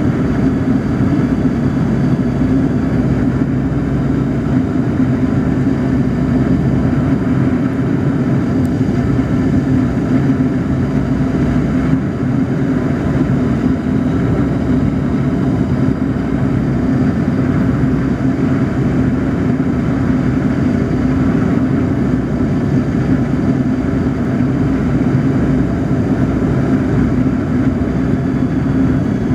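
Yak-42D jet airliner cabin noise on approach: its three rear-mounted turbofans and airflow make a loud, steady drone with a low hum that does not change.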